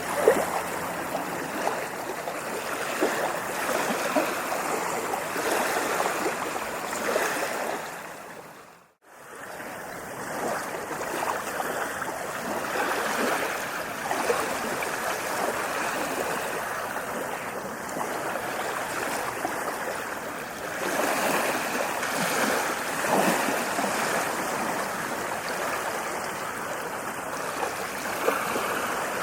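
Sea waves breaking and washing up a beach: a continuous rushing surf that swells and eases. About nine seconds in, the sound fades out briefly to near silence and comes back.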